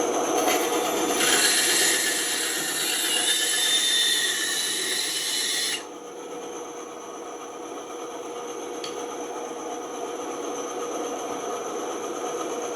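Band saw running, its blade cutting through wood with a loud rasping hiss that stops suddenly about six seconds in. The saw keeps running steadily and more quietly after the cut ends.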